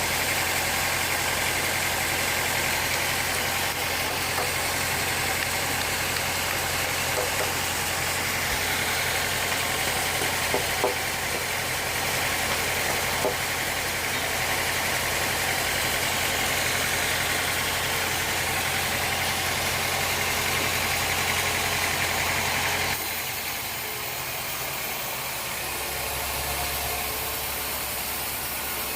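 Sawmill machinery running steadily with a low hum and a few light clicks; about 23 seconds in the sound drops and settles into a quieter, lower hum.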